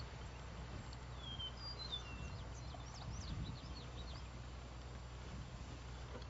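Small birds chirping: a run of short, high calls and quick whistled notes about a second in, lasting a few seconds, over a steady low hum.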